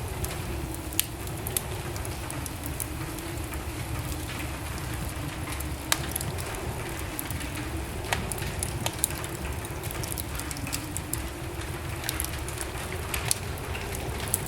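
Wood fire burning in a fireplace: irregular crackles and sharp pops, the loudest about six seconds in, over a steady low rush of the flames.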